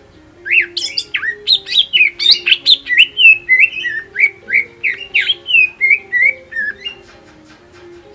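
Green leafbird (cucak ijo) singing a fast, loud run of sharp whistled notes that sweep up and down, about four a second, stopping about a second before the end.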